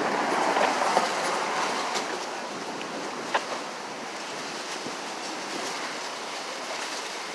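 Steady outdoor rush of wind and street noise, louder for the first two seconds and then easing, with a single sharp click about three and a half seconds in.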